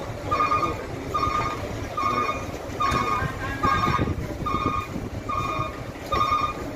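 Truck reversing alarm beeping steadily, about one beep every 0.8 seconds, over the low running noise of a truck engine.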